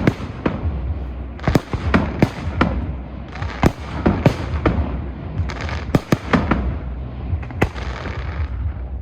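Fireworks display: a rapid, irregular series of sharp bangs from bursting aerial shells, about a dozen in nine seconds, over a continuous crackle and low rumble.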